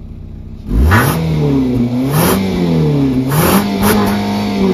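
Nissan Rogue crossover's engine revved hard in place from idle, starting about a second in, its pitch climbing and dropping several times in quick succession.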